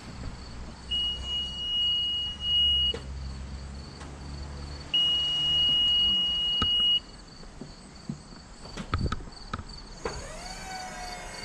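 Two long, steady, high-pitched electronic alarm beeps, each about two seconds, over a low hum. A few sharp clicks follow, and near the end a tone glides upward.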